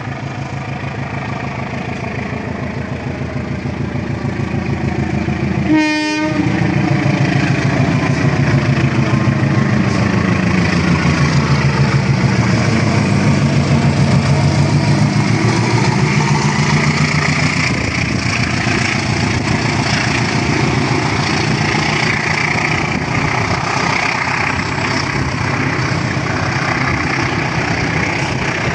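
Train running steadily, its engine note slowly sliding in pitch, with one short horn blast about six seconds in.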